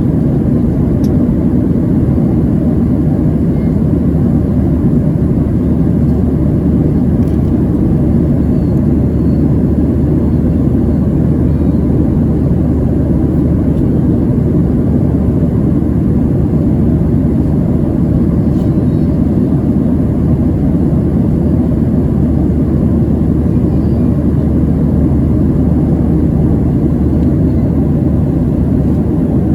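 Steady low cabin roar of a Boeing 737-700 at cruise: engine and airflow noise heard inside the cabin, unchanging throughout.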